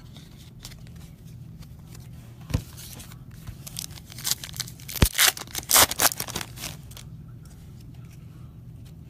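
Trading card pack wrapper being torn open and crinkled in several quick rips about halfway through. A sharp knock comes before the rips and another in the middle of them, over a steady low hum.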